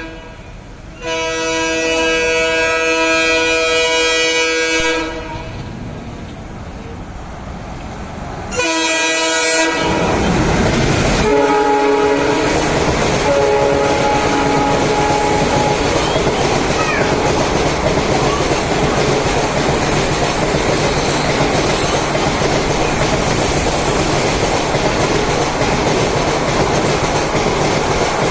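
WDM-3D diesel locomotive sounding its horn: a long blast of about four seconds, then a short blast, then lower-pitched horn notes as it passes. From about nine seconds in, the loud steady rushing and rumble of the locomotive and its coaches going by fills the rest.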